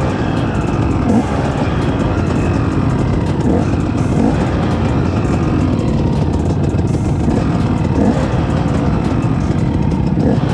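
Off-road vehicle engine running under way, its revs rising and falling every second or two over a heavy steady rumble.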